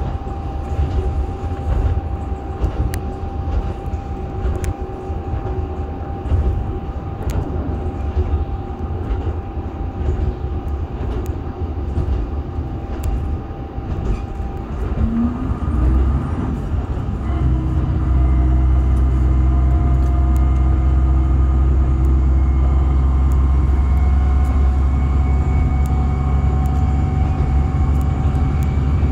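Diesel railcar heard from inside while running, with sharp clicks of the wheels over rail joints. About halfway through, the engine revs up and settles into a louder, steady drone as the train pulls under power.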